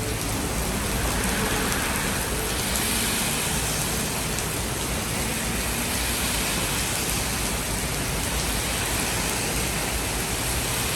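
Steady rain falling, an even, constant hiss of rainfall that comes down fairly hard.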